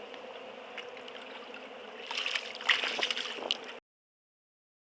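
Water sloshing and gurgling at the side of a small fishing boat over a faint steady hum. There are a few louder sudden noises about two to three and a half seconds in, and the sound cuts off abruptly near the end.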